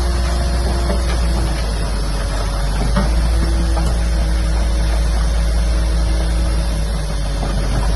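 Heavy diesel earthmoving machinery, such as a bulldozer, running under load with a steady low rumble, and a steady tone that drops out and returns twice.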